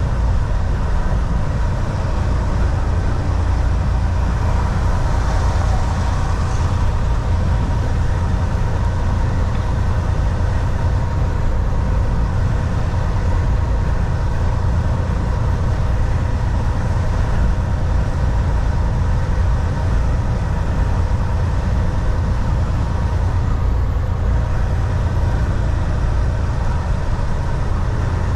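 Volvo VNL 760 semi truck cruising on the highway, heard from the driver's seat: a steady, loud low drone of engine and road noise, with a faint steady whine above it.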